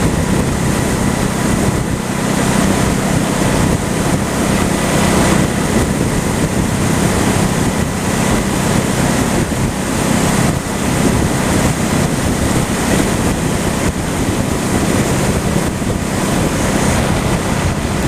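Wind rushing over the microphone of a moving motorcycle, with a Honda Shadow's V-twin engine running steadily underneath.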